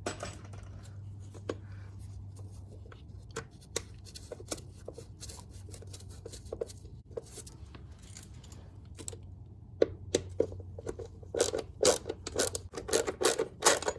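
Metal parts and hand tools being handled at a car door hinge: scattered clicks, taps and scrapes that grow busier and louder in the last few seconds, over a steady low hum.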